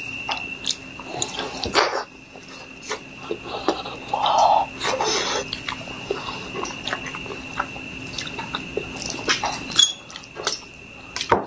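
Close-miked wet chewing and mouth sounds of eating egg and instant noodles, with scattered sharp clicks of a metal fork on a steel plate. A faint steady high-pitched whine sits underneath throughout.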